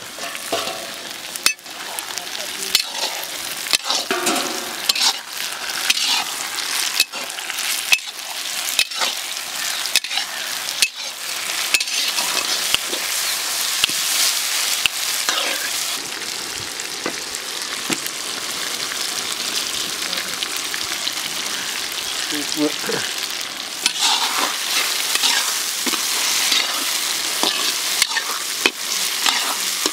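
Chopped capsicum and onions sizzling in hot oil in a large kadai, stirred with a metal ladle that scrapes and clacks against the pan again and again.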